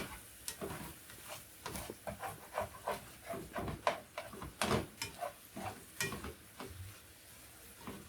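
A utensil stirring beef lo mein in a nonstick skillet, with irregular knocks and scrapes against the pan every half second or so and a faint sizzle of the food cooking underneath.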